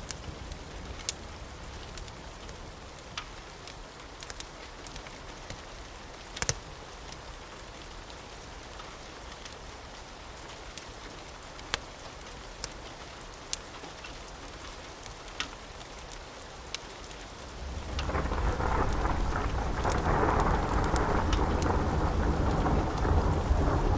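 Steady rain with scattered sharp crackling pops from a wood fire. About 18 seconds in, a long rumble of thunder rolls in and stays loud.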